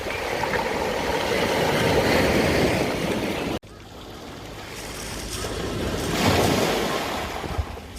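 Sea waves surging and washing in, swelling in rushing noise; the sound cuts off abruptly about three and a half seconds in, then builds to a second swell.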